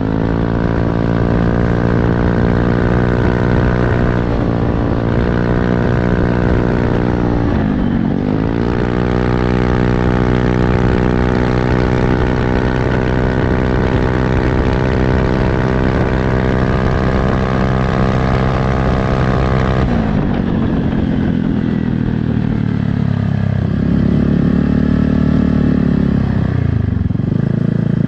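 Automatic scooter's single-cylinder engine running through an aftermarket quiet-type CMS-copy exhaust. It is held at steady high revs with two brief dips, one near the start and one about eight seconds in. About twenty seconds in it drops to a lower, rougher note and is revved up and down.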